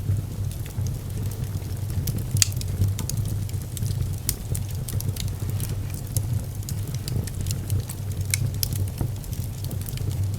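Fire in a fireplace, crackling and popping irregularly over a steady low rumble of the flames, with sharper pops about two seconds in and near the end.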